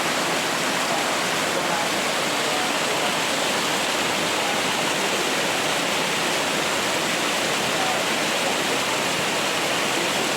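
Muddy rainwater rushing in a steady, loud flow.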